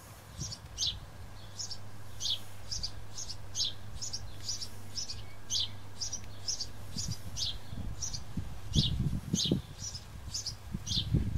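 A small bird chirping over and over, one short high call about twice a second. In the second half, low knocks and rustling of parts being handled sound under it.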